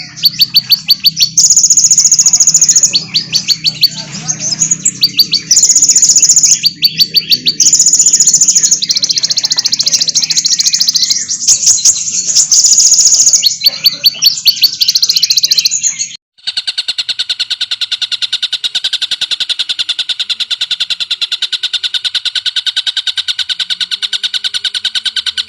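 Recorded songbird song: loud bursts of fast, high trills of repeated notes over a low hum, then about sixteen seconds in a sudden cut to a different bird's steady, rapid trill held without a break.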